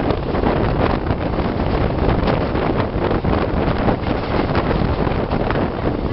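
Train running at speed, recorded from the open door or window of a passenger coach: a steady rush of wind buffeting the microphone over the rumble of the wheels, with irregular clicks and knocks from the wheels on the track.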